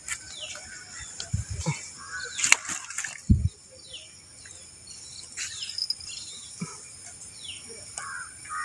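Riverside birds and insects: a bird repeating a short falling call about every two seconds over a steady high-pitched insect buzz, with a few scattered knocks and one heavier thump about three seconds in.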